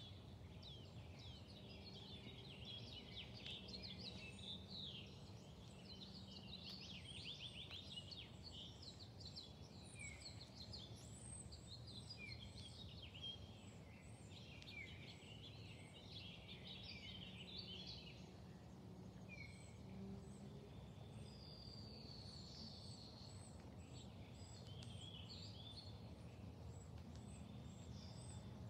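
Quiet outdoor birdsong: several songbirds chirping and trilling throughout, over a faint steady low background rumble.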